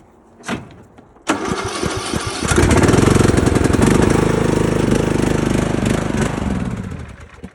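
Garden tractor engine being cranked by its electric starter, turning over with a fast, even pulse. It starts about a second in, gets louder a second later, and stops shortly before the end without staying running. The battery is suspected to be weak or dead.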